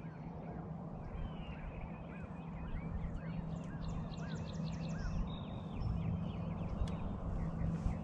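Small birds singing from the shore: a run of short chirps that rise and fall, about two a second, with a quick high trill near the middle. Under them runs a steady low hum with some wind rumble.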